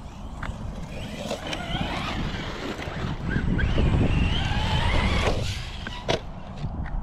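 Electric whine of an Arrma Vorteks 223 RC stadium truck's Hobbywing Max10 G2 2400kV brushless motor and drivetrain, rising and falling in pitch with the throttle over a low rumble of tyres on the ground. A few sharp knocks are heard about a second in and again near the end.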